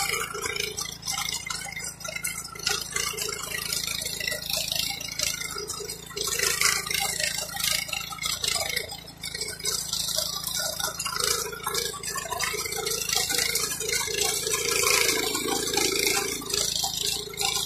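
Varsha petrol power weeder at work: an irregular rattling noise with a dense hiss.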